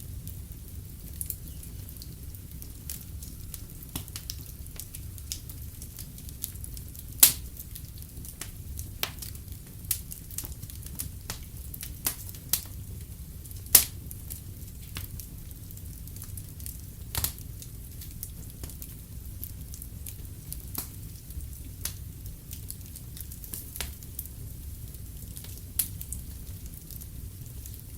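Wood fire in a fireplace crackling, with a steady low rumble of burning and frequent irregular sharp pops and snaps; two pops stand out as the loudest, about a quarter and a half of the way through.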